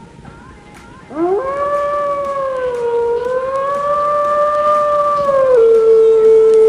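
A canine howling: after a quiet second, one long call rises quickly in pitch, wavers gently while held, then steps down to a lower steady note near the end.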